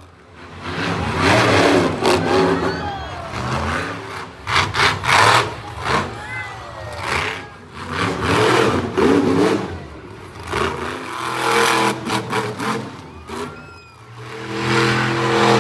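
Monster truck engine revving hard in repeated surges, rising and falling every second or two, with a few sharp loud bursts.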